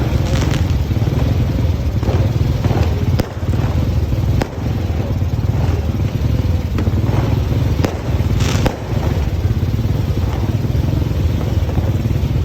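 Fireworks going off: a continuous low rumble with sharp bangs and crackles every second or so, a louder one about three seconds in and another near the end.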